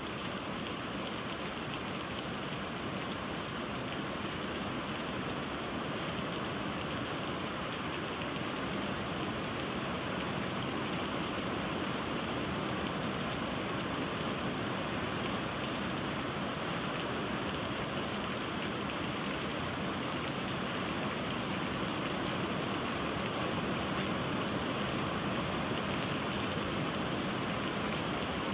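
Steady rain falling, an even, unbroken patter with no pauses.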